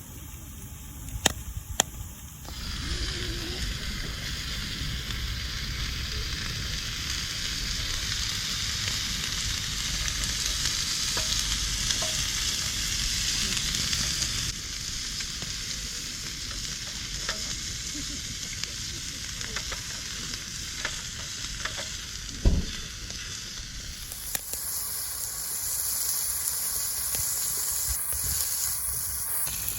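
Raw lamb sizzling steadily on a thin aluminium bushcraft grill plate. A few sharp clicks come near the start, and a single knock about two-thirds of the way through.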